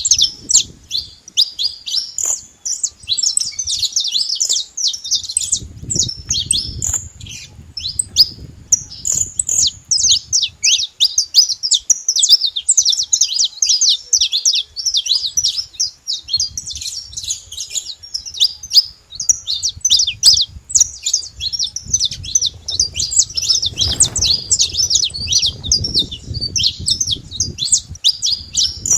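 Saffron finch song: a continuous stream of rapid, high chirping notes, with a faint low rumble underneath at times.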